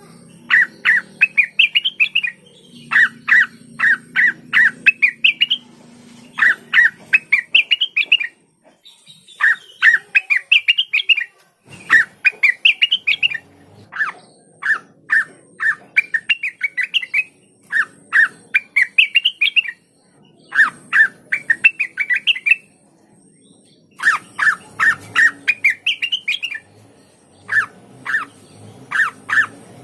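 Cucak wilis (rengganis leafbird) singing: runs of rapid, repeated short notes that sweep upward in pitch, each run lasting a few seconds with brief pauses between.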